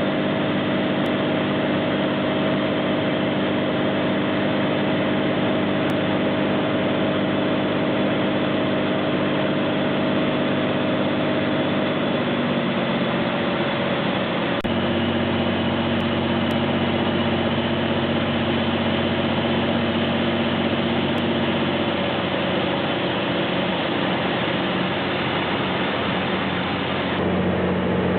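Light airplane's engine and propeller running steadily, heard from inside the cabin, with the engine note shifting slightly about halfway through.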